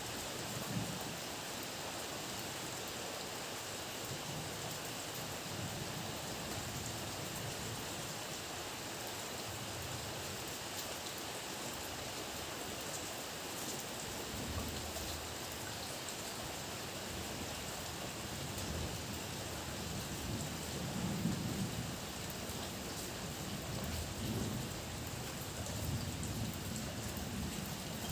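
Heavy, steady downpour of rain with low thunder rumbling on and off, the rumbles heaviest in the last third.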